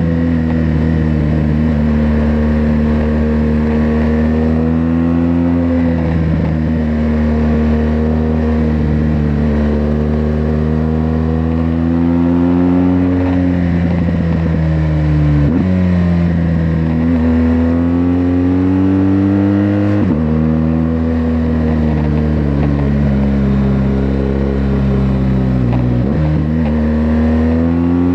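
BMW R1200GS LC's boxer-twin engine through its stock exhaust, running with its note rising steadily and then dropping sharply several times, as under acceleration.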